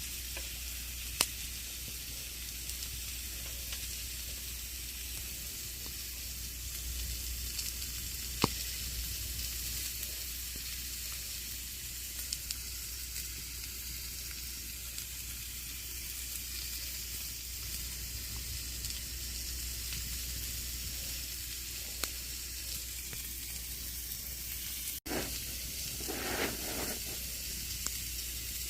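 Wood campfire burning with a steady hissing crackle and occasional sharp pops, two of them standing out, about a second in and about eight seconds in. Near the end the sound cuts out for an instant, then a short louder rustle follows.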